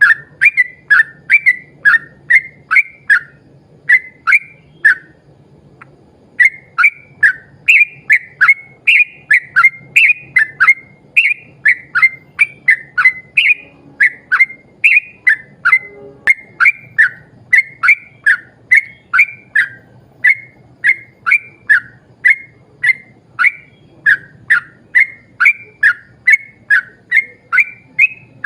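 Yellow-vented bulbul (trucukan) singing a long run of short, loud whistled notes, about two a second, with a brief pause about five seconds in.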